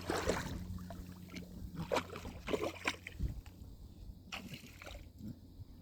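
A dog splashing through shallow water: a few short splashes and sloshes, the loudest near the start, over a steady low hum.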